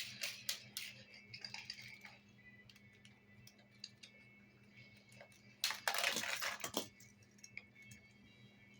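Toy construction vehicles being handled: scattered light clicks and clacks of hard toy parts, with a louder burst of clattering about six seconds in.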